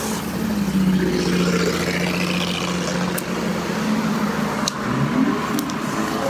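Motor vehicle engine running with a steady low hum, rising in pitch briefly about five seconds in, with a few faint clicks.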